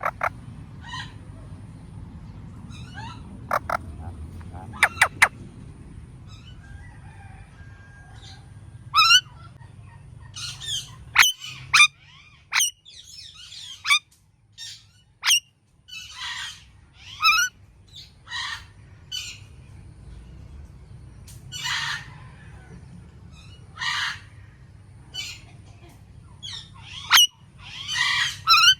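Indian ringneck parakeet calling: a long run of short, sharp calls with quick up-and-down sweeps in pitch, mixed with harsher screeches, coming irregularly over a faint low rumble.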